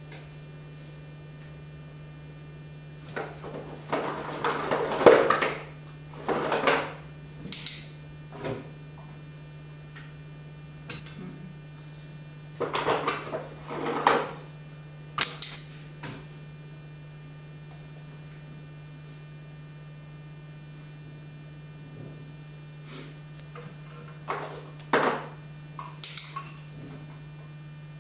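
A steady electrical hum under irregular clusters of rustling and knocking, with a few short sharp clicks among them.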